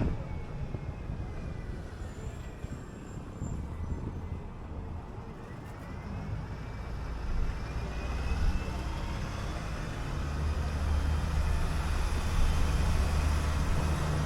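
City bus engine and drivetrain running while the bus gathers speed: the low drone grows louder over the second half, and a whine rises in pitch about halfway through.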